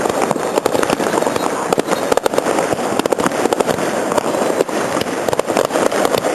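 Fireworks display: a dense, continuous crackle of many small bangs going off close together, without a pause.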